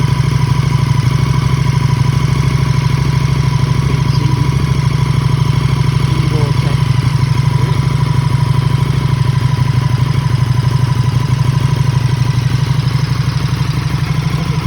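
KTM 1290 Super Duke RR's V-twin engine idling steadily through a newly fitted Spark Konix Evo titanium exhaust with a deep note. It is warming up on its first heat cycle with the new exhaust.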